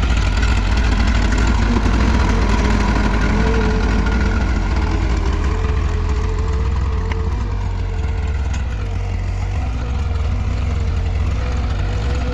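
Farm tractor engine running steadily, with a deep, continuous drone.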